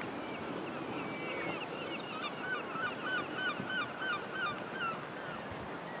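Birds calling: a quick run of short, repeated calls, about three a second. A higher-pitched series is joined about two seconds in by a louder, lower one that stops near five seconds.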